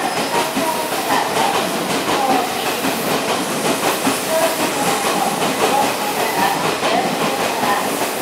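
Tokyo Metro 16000 series electric train pulling into the platform and slowing. Its wheels clatter over the rail joints with a steady rush of running noise, and a wavering high whine from the wheels and brakes runs over it.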